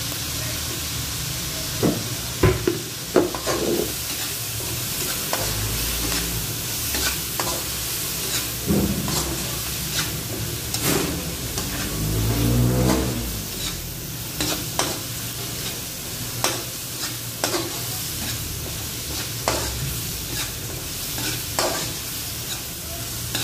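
Diced pork belly frying in an aluminium wok, sizzling steadily, while a metal spatula scrapes and clacks against the pan as it is stirred. The scrapes come in bunches, busiest about two to three seconds in and again around twelve seconds in.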